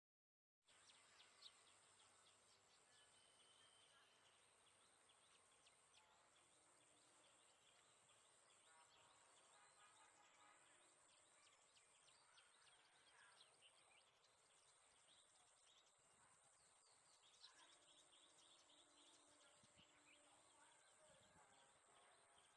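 Very faint outdoor ambience: scattered bird chirps over a steady high-pitched hum.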